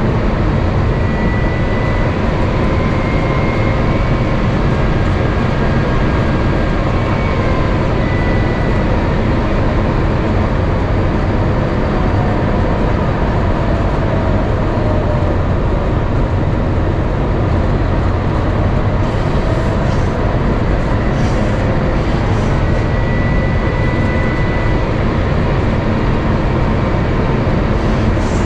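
Steady loud rush of airflow and engine noise heard inside the cabin of an Airbus A350-900 as it comes in to land. Faint engine whine tones drift slowly up and down in pitch.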